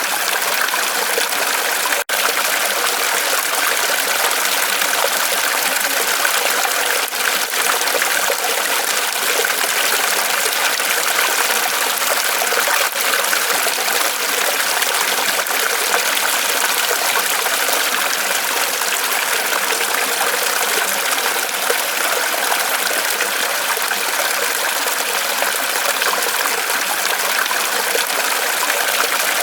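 Small waterfall of water trickling and splashing steadily off a tree trunk, with a momentary dropout about two seconds in.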